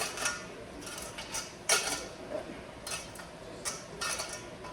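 Several separate clinks and knocks of kitchen dishes and utensils being handled, the loudest a little under two seconds in.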